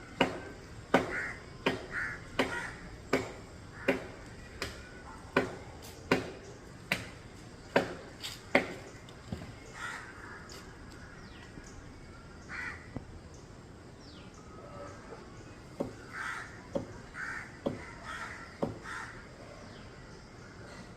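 Chopping blows into a tree trunk, a sharp knock about every three-quarters of a second for roughly nine seconds, then a pause and a few more scattered blows near the end. Crows caw on and off throughout.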